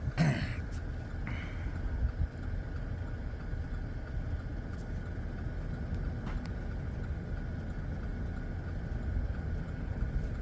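Steady low rumble of a pickup truck's engine heard from inside the cab.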